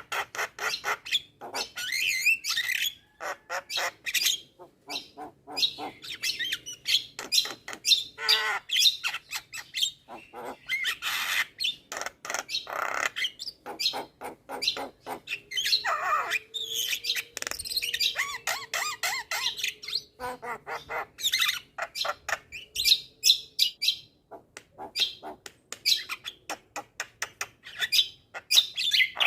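Javan myna (jalak kebo) singing a busy, varied song full of mimicked calls: rapid clicking chatter, warbled whistles and squawks following one another almost without pause.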